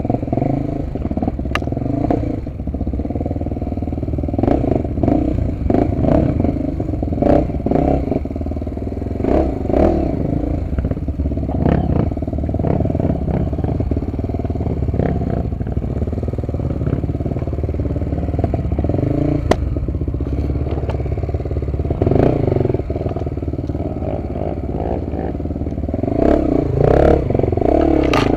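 Honda XR250 Tornado's single-cylinder four-stroke engine running under way on a dirt trail, its note rising and falling and louder near the end, with frequent knocks and rattles from the bike over rough ground.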